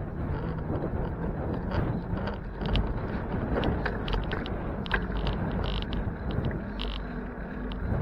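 Wind and road noise from a bicycle being ridden, a steady rumble with many scattered light clicks and rattles.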